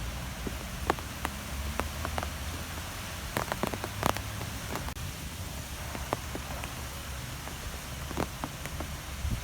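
Wind ambience: a steady hiss over a low rumble, with irregular sharp ticks scattered all through.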